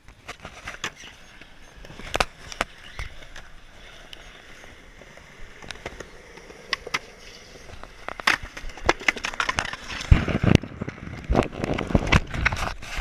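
Skateboard wheels rolling on pavement, with sharp clacks of the board striking the ground, thickest and loudest from about ten seconds in.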